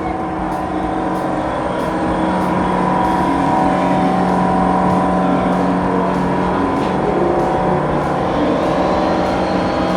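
Woodworking workshop machinery running with a steady droning hum, with a faint high whine coming in near the end.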